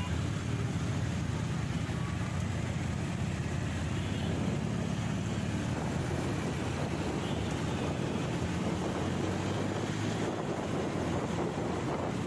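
Steady wind buffeting the microphone of a moving motorcycle, a continuous low rumble with the bike's running and road noise underneath.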